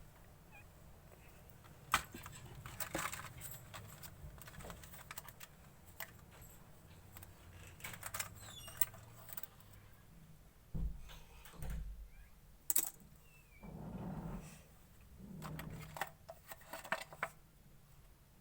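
Clear slime being mixed and squished by hand, giving irregular sticky clicks and crackles, with a few duller, louder squishes in the second half.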